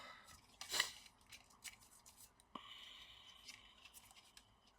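Faint handling of plastic laptop parts: scattered light clicks, with a short scratchy rasp lasting about a second some two and a half seconds in.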